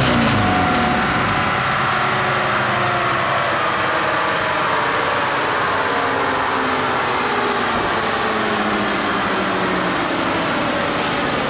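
Car engine running on a dyno just after a revving pull, its engine note steady under a loud, even rush of noise.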